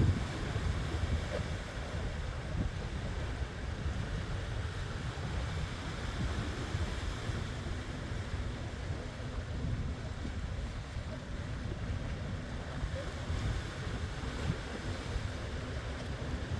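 Pacific Ocean surf breaking steadily, with wind buffeting the microphone in a low, fluttering rumble.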